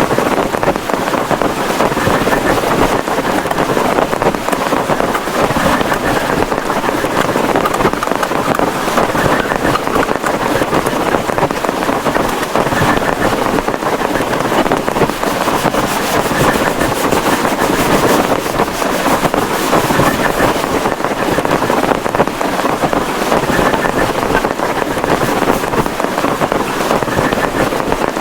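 Heavy rain pouring down in a storm with wind, a loud, dense, steady hiss that does not let up.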